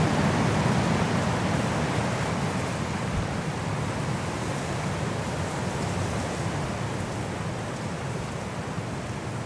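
Steady rushing noise of a storm, easing slightly toward the end.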